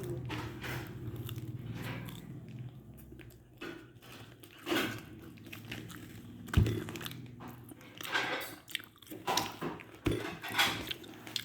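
A person biting and chewing a crunchy corn dog close to the microphone, with irregular crunches and mouth sounds. A single sharp knock about six and a half seconds in is the loudest sound.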